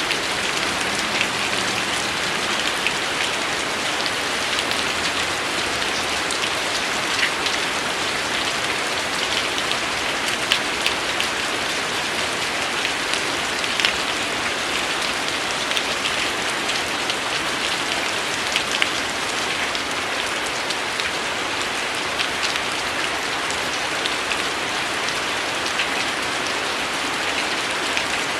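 Steady rain falling: an even hiss with frequent individual drops ticking through it.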